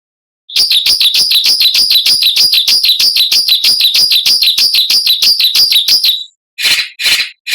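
A songbird giving a harsh, sharp, rattling call (the "mbeset" or "besetan" call prized by bird keepers). It is a fast run of about four to five notes a second for some five seconds, followed by two short rasping bursts.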